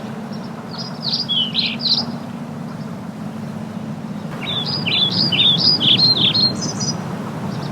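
A songbird singing two phrases of quick, sweeping whistled notes, a short one about a second in and a longer one past the middle, over a steady low hum.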